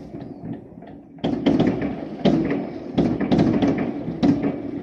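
Chinese New Year fireworks going off between high-rise apartment blocks: after a quieter first second, a string of sharp bangs and crackles, each with a ringing echo off the buildings.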